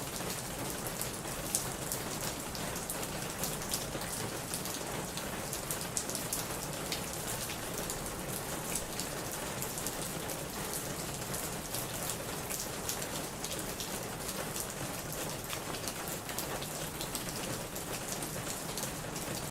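Steady rain pattering on a plastic roof, a constant wash of hiss with many sharp individual drop ticks on top. It cuts off suddenly at the end.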